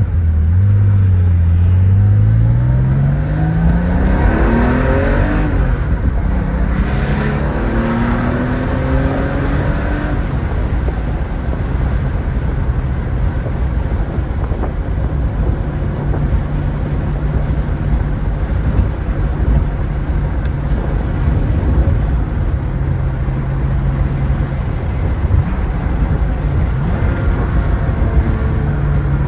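1975 Porsche 911S's air-cooled 2.7-litre flat-six accelerating, its note rising for about the first ten seconds, then the car cruising at a steady engine note with tyre and wind noise.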